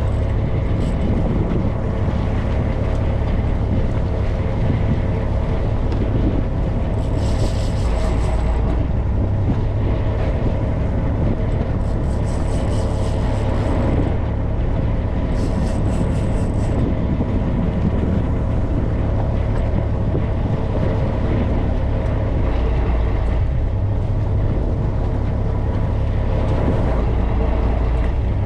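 Fishing boat's engine running steadily underway, a constant low rumble with a steady hum above it, and wind on the microphone.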